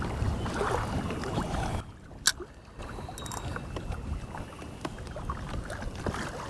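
Water sloshing and lapping against a kayak hull, with small knocks and a sharp click about two seconds in.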